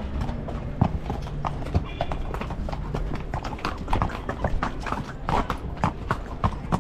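Horse's hooves clip-clopping, a quick irregular run of sharp knocks.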